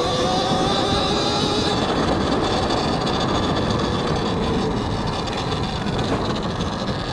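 Talaria XXX electric dirt bike ridden hard, picked up by a helmet mic: the electric motor's whine rises as it accelerates at the start, then is buried under heavy wind noise and the rumble of the drivetrain and tyres over rough ground.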